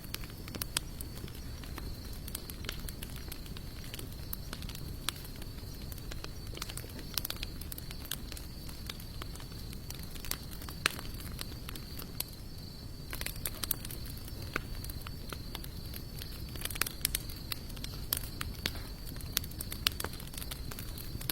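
Wood campfire of sawtooth oak and mixed hardwood burning, crackling with irregular sharp pops that come thicker a little past the middle. A steady high-pitched tone sits in the background throughout.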